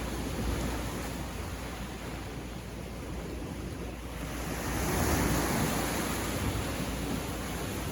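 Sea waves breaking and washing on a beach, steady surf noise with one wave surging in louder about four and a half seconds in.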